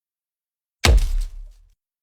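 A sudden thump with a deep rumbling tail, about a second in, fading out within a second.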